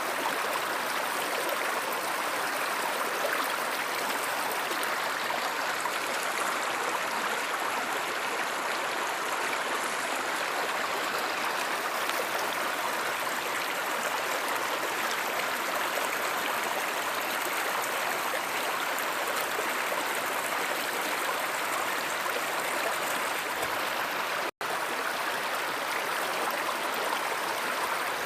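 River or stream water rushing steadily, an even wash of sound, with a split-second drop-out about three-quarters of the way through.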